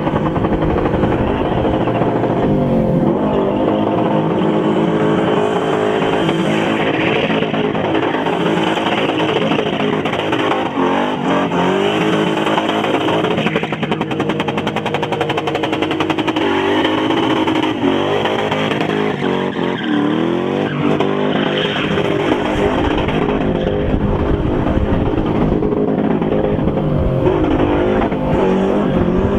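Car engine held at high revs during a spinning display, the driver keeping the rear wheels spinning. The revs dip and climb back up every few seconds.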